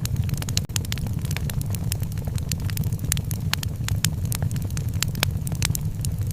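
Wood fire crackling, with frequent sharp pops scattered irregularly over a steady low rumble.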